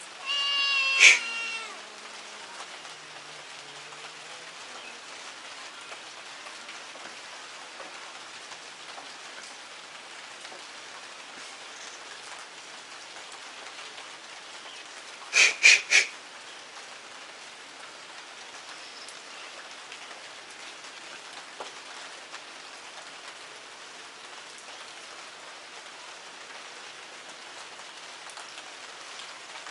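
Steady rain, with one drawn-out animal call about a second in and three short calls in quick succession about halfway through.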